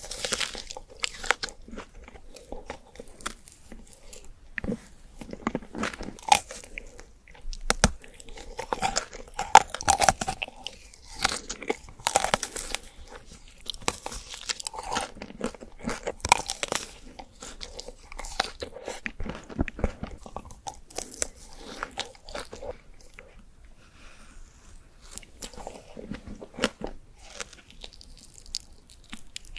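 Close-miked eating: repeated crunchy bites and chewing of sweets, with many irregular sharp crunches.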